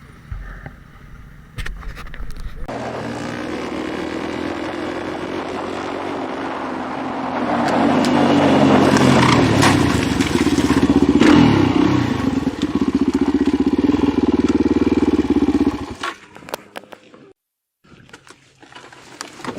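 Motorcycle engine running under way with wind rush, its revs rising and falling. It is loudest around ten seconds in, then cuts off suddenly near the end.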